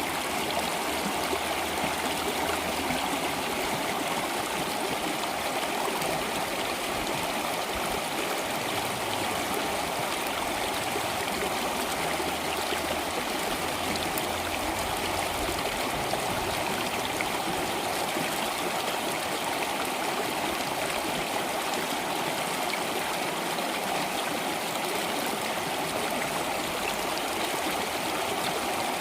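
Flowing water from a stream, rushing steadily without a break.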